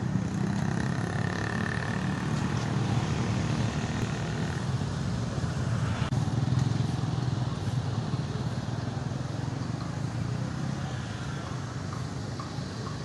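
Road traffic at a busy city railway level crossing: a steady mix of motorcycle and car engines running, with no clear single event standing out.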